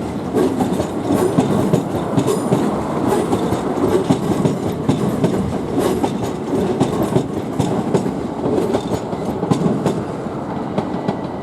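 Electric multiple-unit train running on the approach tracks, wheels clicking rapidly over rail joints and points.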